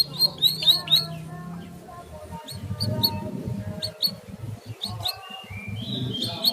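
Small songbirds chirping in rapid series of short, sharp, high notes during the first second and again near the end, with a few brief whistled notes in between, over a low background rumble.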